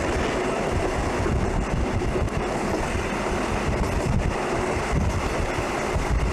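Steady rumble and rush of a moving train, with wind buffeting the microphone.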